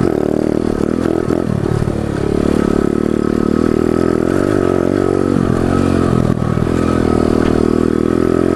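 Pit bike engine running while being ridden over rough dirt, its pitch rising and falling with the throttle, with scattered clattering knocks.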